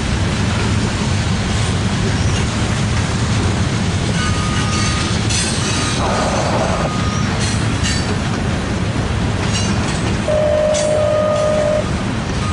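Train rolling past, a steady loud rumble of wheels on rail, with a few short high-pitched squeals in the second half.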